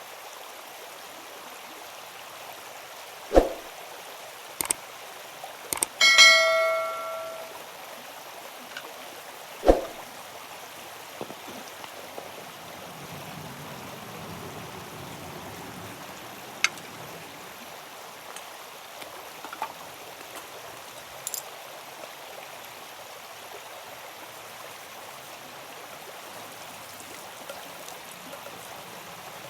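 Steady rushing of flowing water throughout, with a few sharp knocks. About six seconds in, a metal object is struck once and rings like a bell, fading over a second or so.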